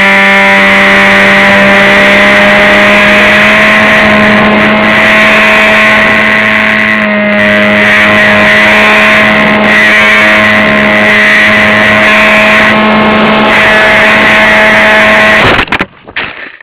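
Bixler RC plane's electric motor and pusher propeller running with a steady whine under loud wind noise. Near the end the sound cuts off abruptly, followed by a few short knocks.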